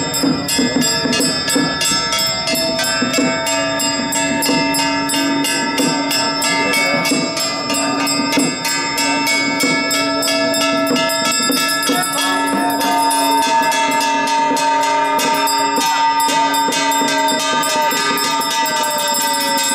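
Temple ceremony music: bells ringing over a fast, steady clatter of metal percussion, with long held tones that slide in pitch near the end.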